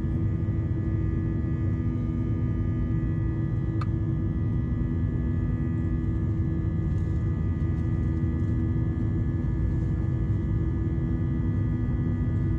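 Airliner cabin noise with the jet engines running: a steady deep rumble with constant humming tones that do not change, heard from inside the cabin. A single short click sounds about four seconds in.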